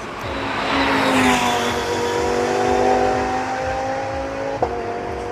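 GT race car passing at speed during the warm-up session, its engine note swelling and then falling steadily in pitch as it goes by. A sharp click comes about four and a half seconds in.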